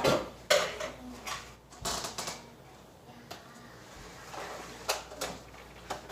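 Irregular sharp knocks and clicks of things being handled, several in the first two seconds and a few more near the end.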